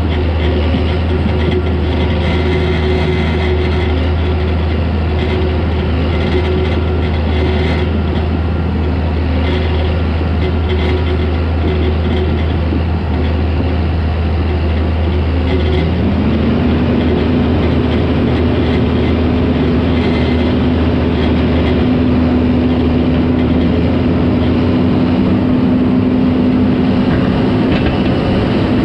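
Caterpillar D4 crawler tractor's diesel engine running steadily at work. About halfway through, the engine speed rises and then holds at the higher pitch.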